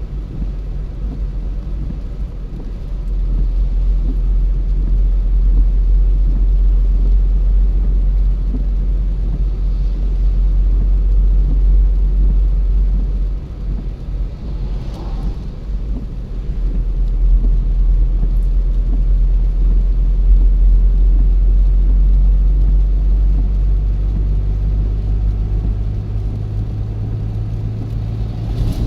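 Car driving on the road: steady low rumble of engine and tyres, dropping off about thirteen seconds in and building back up a few seconds later. A brief whoosh comes about fifteen seconds in.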